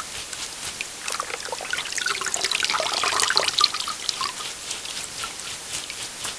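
Water trickling and dripping in many small, irregular drops. The drops turn busier and louder for a second or two in the middle.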